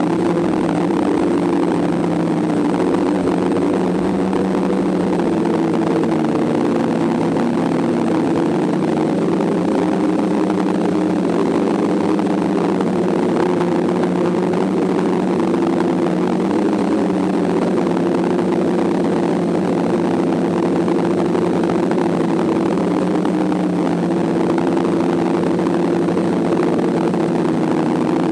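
DJI F550 hexacopter's electric motors and propellers running in flight: a steady hum of several tones whose pitches drift slightly up and down as the motor speeds adjust.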